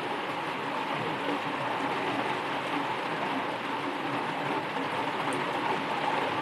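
Steady rain falling, an even hiss with no breaks or pauses.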